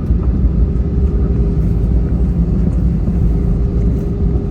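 Cabin noise inside an Airbus A320-200 with CFM56 engines: a steady, loud low rumble, with a faint steady hum above it.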